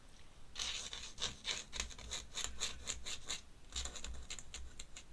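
A pen scratching on paper in quick, short strokes, sketching in clouds: one run of strokes, a brief pause, then a second shorter run.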